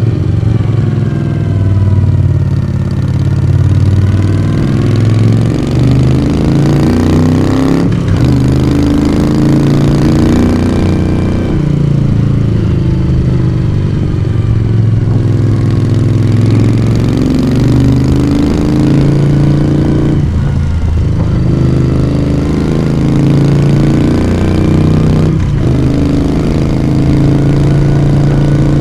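Moto Guzzi V35's small transverse V-twin engine and exhaust under way, the revs rising and falling through the bends, with brief breaks in the note about eight, twenty and twenty-five seconds in.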